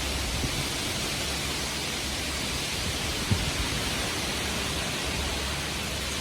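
Heavy rain falling steadily, an even hiss, with one brief knock about halfway through.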